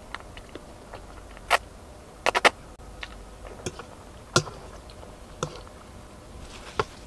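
Metal fork clinking and tapping against a plate while gathering spaghetti: a string of separate sharp clicks, the loudest a quick triple about two and a half seconds in.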